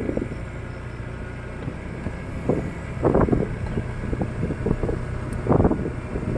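Motorcycle engine running steadily while being ridden, with wind buffeting the microphone in gusts, loudest about three seconds in and near the end.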